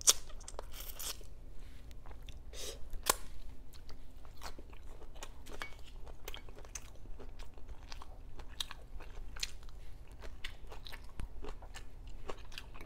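A person chewing food close to the microphone, with many irregular sharp crunches. The loudest crunches come at the start and about three seconds in.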